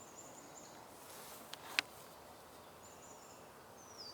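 Faint, very high, thin bird calls: a few short notes, some sliding down in pitch. A single sharp click comes a little under two seconds in.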